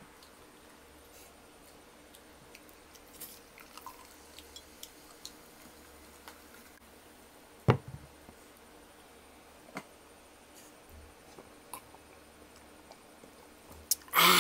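Table-side handling of a drinking glass and a 1-litre glass Coca-Cola bottle: scattered faint clicks and ticks, a single sharp knock about halfway through, and a loud short noise near the end as the glass is drunk from.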